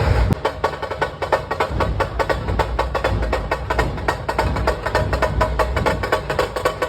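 Dhol-tasha troupe drumming: a rapid, dense rattle of sharp tasha stick strokes over deep dhol beats. A heavy low rumble cuts off a moment after the start.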